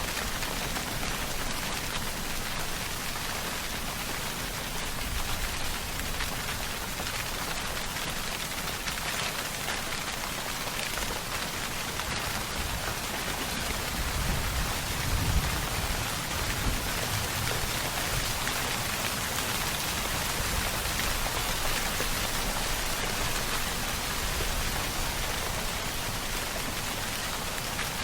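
Steady, dense rainfall pattering on surfaces, an even hiss of drops throughout, with a brief low rumble swelling about halfway through.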